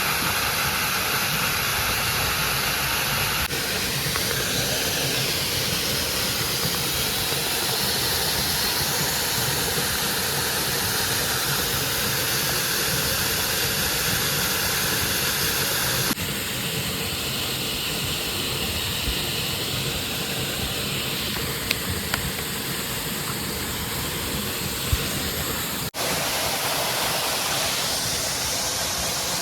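Steady rushing of a waterfall, its tone changing abruptly three times as the shot cuts.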